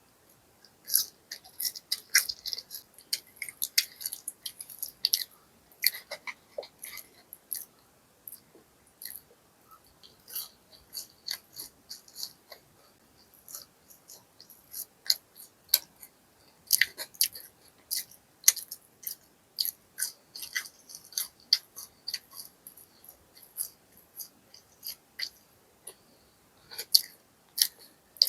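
Close-miked eating: a person biting into and chewing crisp fried food, a quick, irregular run of sharp crunches and wet clicks with short pauses between mouthfuls.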